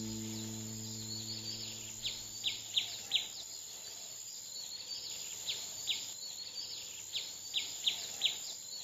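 Birds calling: short, sharp chirps that sweep downward, coming in quick runs of two to four, over a steady high hiss. The tail of background music fades out in the first second.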